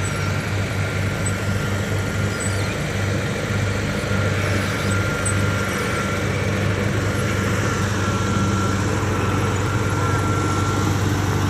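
Heavy machine or truck engine running steadily under a low, even hum, with a thin high whine riding on top.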